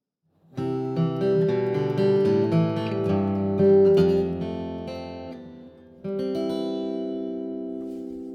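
Acoustic guitar music: a run of plucked notes, then a chord strummed about six seconds in that rings and slowly fades.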